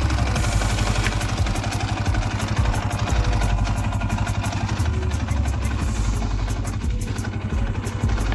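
Small off-road vehicle engine idling with a fast, even low pulsing.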